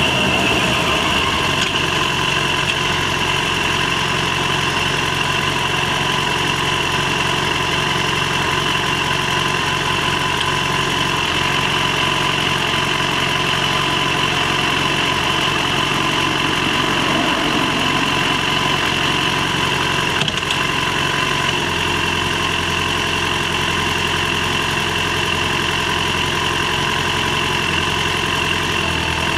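Yamaha FZ6's inline-four engine idling steadily.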